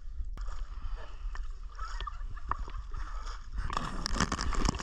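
Water sloshing and splashing around a waterproof action camera, with a low rumble, then a busier run of splashes and knocks near the end.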